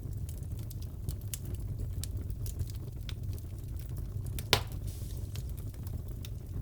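Wood fire crackling in a fireplace. A low steady rumble runs under scattered small crackles, with one sharp, louder pop about four and a half seconds in.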